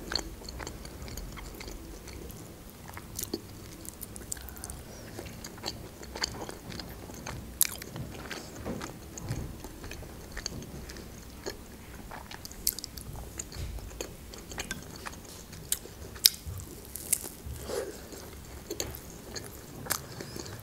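Close-miked chewing and biting of soft food, mostly dolma (stuffed grape leaves), with wet mouth clicks and small crunches at irregular intervals.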